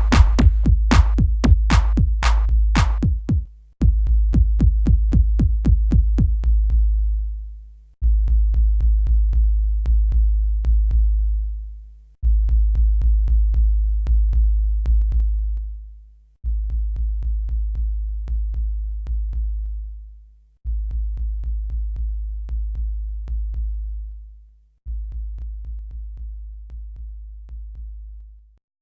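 Electronic instrumental beat from a drum machine, with deep sustained bass hits under fast ticking hi-hats. It repeats in bars of about four seconds, each dying away before the next, and grows quieter toward the end.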